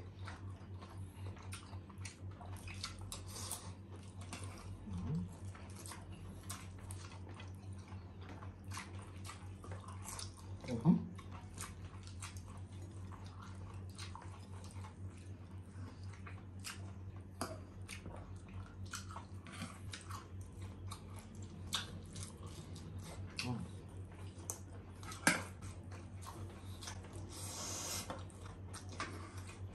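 Close-miked chewing and biting of sausages, chicken nuggets and rice, with spoons and a fork clicking against plates and bowls, over a steady low hum. A few short sounds from the eaters' voices stand out, the loudest about eleven seconds in.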